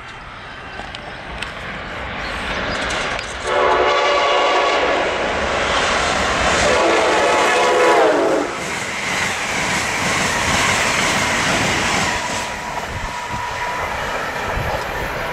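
Amtrak passenger train passing at speed on the Northeast Corridor. It grows louder as it approaches, sounds its horn in two long blasts, the second dropping in pitch as it goes by, then carries on with the rumble and clatter of the coaches' wheels on the rails.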